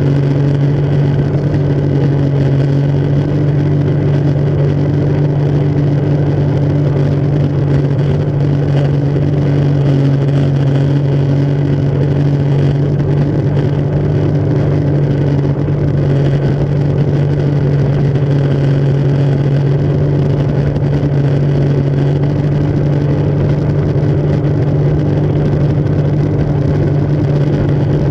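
Jet ski engine running at a steady, even pitch, with no rise or fall in revs.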